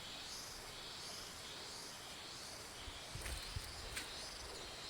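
Faint outdoor insect chirring, a steady high-pitched cricket-like trill, with a few soft clicks and low knocks about three to four seconds in.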